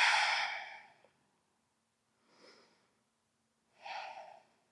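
A person's audible breathing: a long, loud breath lasting about a second at the start, and a shorter, quieter one about four seconds in.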